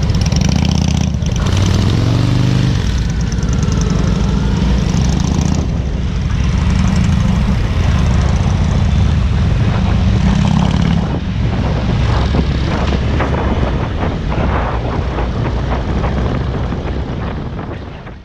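Motorcycle engine running under way with heavy wind rush, its pitch rising briefly about two seconds in as it accelerates; the sound fades out at the very end.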